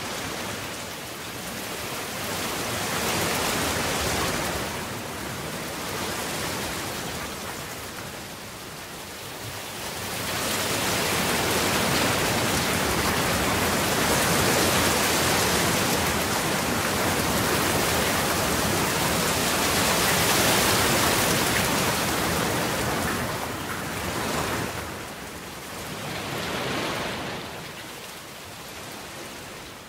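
Heavy rain falling, a dense, even hiss that grows louder about ten seconds in and eases again near the end.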